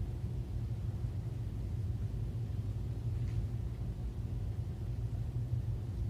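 Steady low rumble of background noise, with one faint, brief high-pitched sound about three seconds in.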